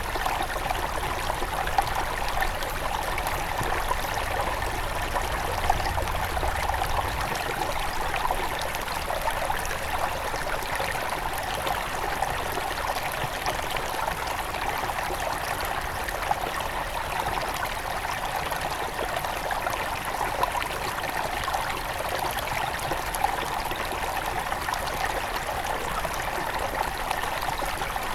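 Headwater stream of a small forest river flowing steadily: a continuous rush of running water with many fine trickles and small splashes.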